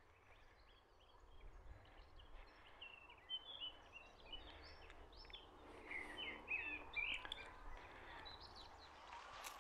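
Small birds chirping and singing, faint, a quick run of short high notes mostly in the middle. Footsteps start near the end.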